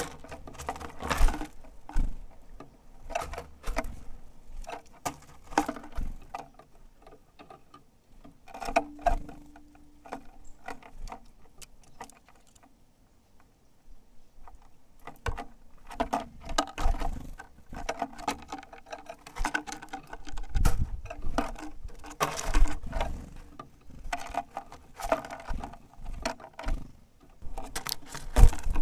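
Irregular tapping and clicking of tits pecking and hammering at sunflower seeds and hopping about at a feeder, with a short lull in the middle.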